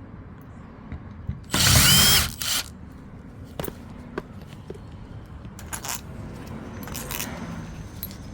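Power drill run in one short burst about a second and a half in, its motor pitch rising and then dropping, followed by a brief second burst. After that come a few clicks and knocks of metal parts being handled.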